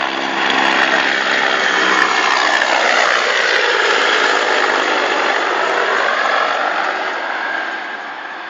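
Attack helicopter flying low overhead: loud rotor and turbine noise that swells in the first second, sweeps down and back up in pitch as it passes, and fades near the end.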